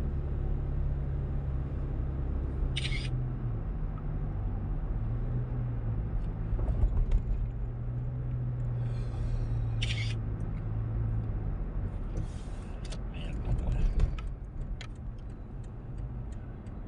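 Car engine and road noise heard from inside the cabin while driving, with the engine's low hum shifting in pitch as the speed changes. Two brief high hisses cut in, about 3 seconds and 10 seconds in, and a few light clicks follow later.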